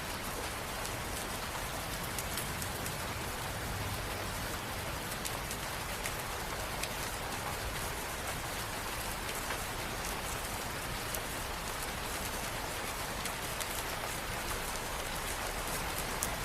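Steady rain ambience: continuous rain hiss with many small drop ticks.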